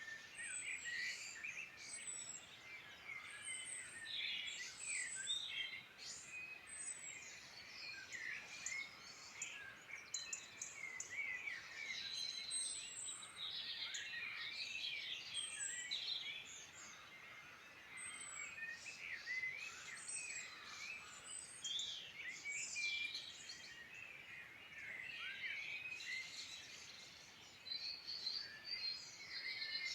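Several songbirds singing at once in a dense chorus of short, overlapping calls.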